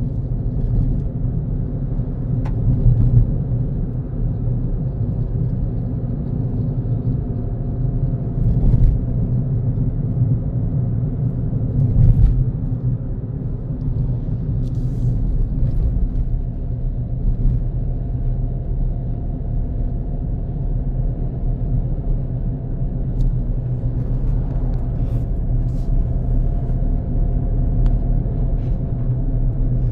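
Car driving along a road, a steady low rumble of engine and tyre noise, with three brief louder thumps in the first half.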